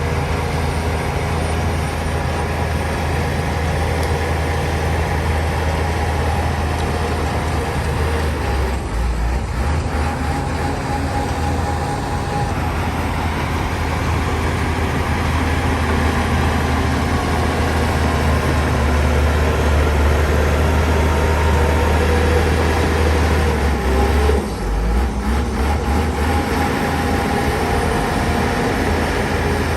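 Heavy diesel engine of a Shantui DH17 bulldozer running steadily under work, with brief dips in engine note about nine seconds in and again near twenty-five seconds.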